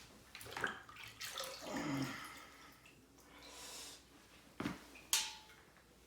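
Tap water running and splashing as a diesel heater part, cleaned in an ultrasonic cleaner, is rinsed by hand, with two sharp knocks a little after halfway.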